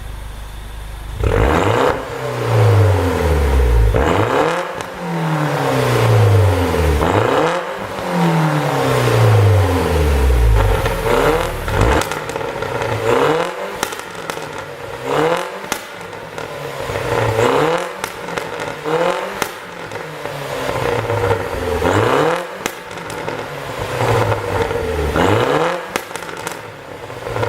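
BMW R56 Mini Cooper S 1.6-litre turbocharged four-cylinder blipped over and over in free rev, about every two seconds. Each time the revs fall, the exhaust pops and crackles on the overrun, the effect of a pops-and-crackles engine tune.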